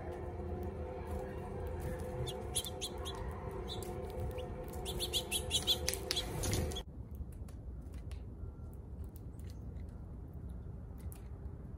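Small birds chirping in quick bursts of short high calls over a steady low hum. About two thirds of the way through, the sound cuts abruptly to a quieter background with only a few scattered chirps.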